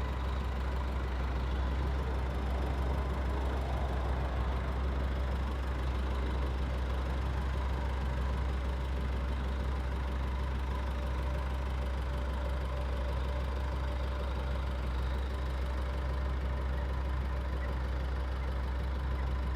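Tractor engine working steadily under load as it pulls a multi-furrow plough across the field, a constant low drone.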